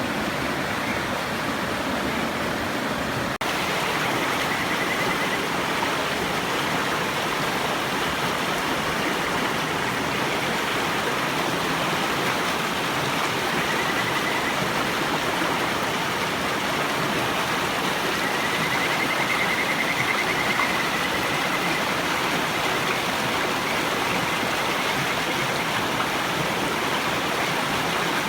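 River water rushing steadily. Over it, Kajika frogs (Buergeria buergeri) give faint, high, warbling trills several times, the longest near two-thirds of the way through.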